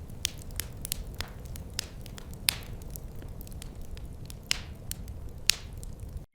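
Wood fire crackling: irregular sharp pops and snaps, a few hissing away after the pop, over a low steady rumble of the flames. The sound cuts out for an instant at the very end.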